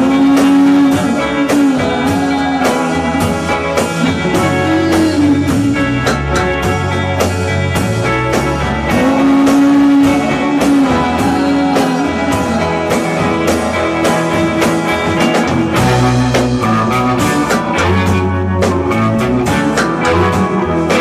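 Rock music with electric guitar and a drum kit keeping a steady beat, and a sustained lead line bending in pitch.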